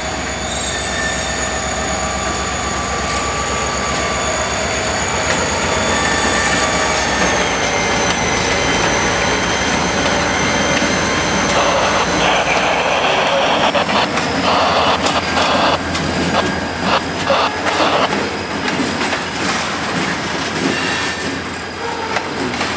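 CSX diesel freight locomotives passing close at slow speed: a low engine rumble that fades about halfway through, a high steady wheel squeal, and from about halfway on, wheels clicking and clattering over the rail joints.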